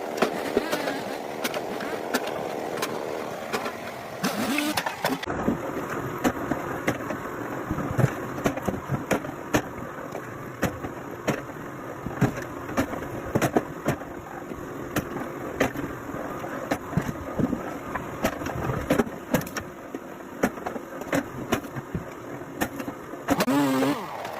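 A motor running steadily under many sharp, irregular knocks and clatters.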